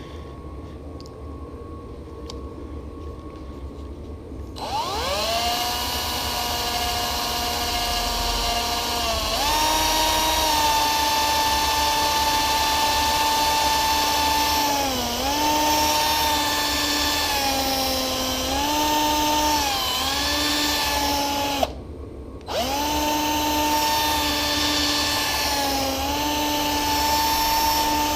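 Small electric drill spinning a cotton bud charged with metal polish against a rusty bolt. The drill starts about five seconds in and runs with a steady whine that dips in pitch each time it bears on the work. It stops briefly about three-quarters of the way through, then runs again.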